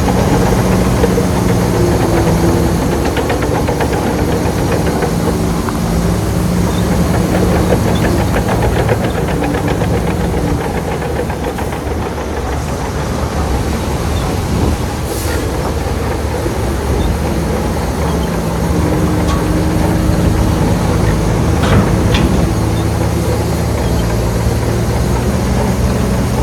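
Heavy construction machine's diesel engine running, its steady note dropping away mid-way and coming back near the end, over a continuous metallic rattle and clatter.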